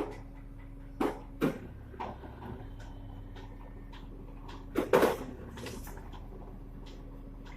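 A concrete mixer truck's engine runs with a steady low hum while sharp knocks and clanks come at irregular intervals, several in the first two seconds and the loudest about five seconds in.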